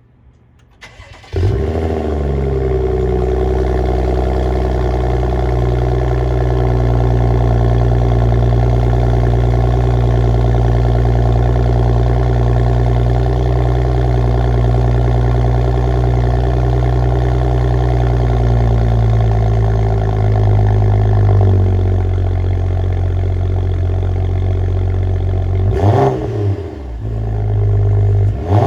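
A 2013 BMW 535i's turbocharged 3.0-litre inline-six, with its exhaust mufflers deleted, cranks briefly and catches on a cold start. It runs at a steady raised cold idle that drops to a lower idle about three-quarters of the way through, then gets a quick rev blip near the end.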